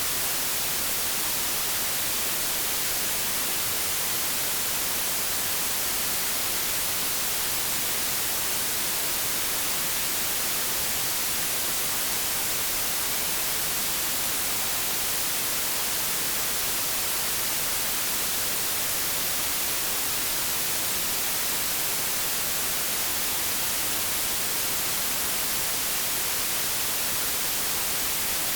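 Steady white-noise static, like a TV or radio tuned between stations: an even hiss, strongest in the treble, with no change.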